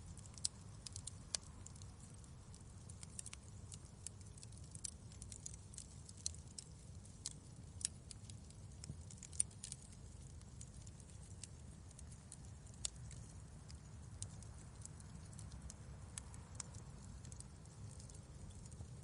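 Wood fire crackling: irregular sharp snaps and pops, a few louder than the rest, over a low steady rumble.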